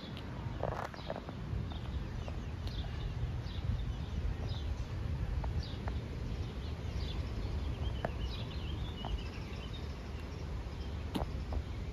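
Songbirds chirping again and again over a steady low outdoor rumble, with a few light clicks and footsteps.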